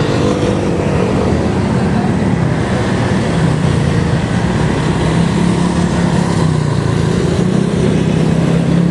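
Steady, loud road and wind noise while riding, with a motor vehicle's engine hum that wavers in pitch underneath.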